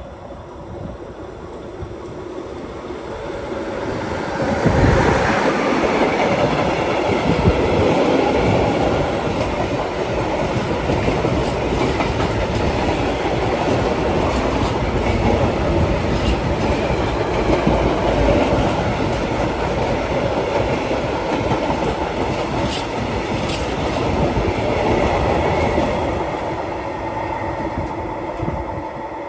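A train passing on the line: the rumble and wheel-on-rail noise build up over the first few seconds, stay loud and steady for about twenty seconds, then die away near the end.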